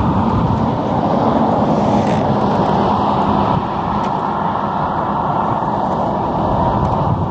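The 30cc two-stroke gas engine of a 1/5-scale Redcat Rampage MT RC truck, fitted with a tuned pipe, running steadily under throttle. It drops a little in level about halfway through.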